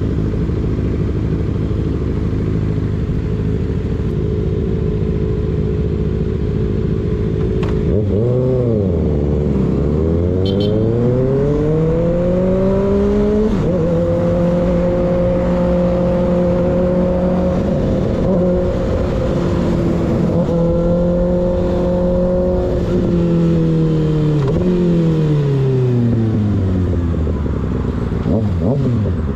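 Sport motorcycle engine with an unbaffled M4 GP19 slip-on exhaust, ridden on the road. It cruises at a steady pitch, then about eight seconds in the revs dip briefly and climb steadily as it accelerates. It holds high and steady for several seconds, falls away as the bike slows, and starts climbing again near the end.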